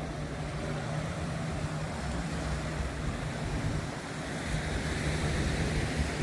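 Beachfront ambience: a steady low hum of motor traffic, with a broad rushing wash of surf that grows louder about four and a half seconds in.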